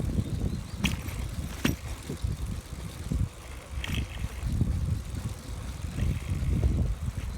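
Brompton folding bicycle being ridden: uneven low rumble of wind on the microphone and road noise, with three short sharp clicks, two about a second in and one near four seconds.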